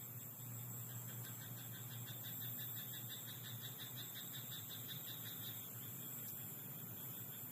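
A chorus of frogs calling in a rice paddy at night: many rapid, pulsing croaks overlapping into a continuous trill, with a steady high tone and a low hum underneath.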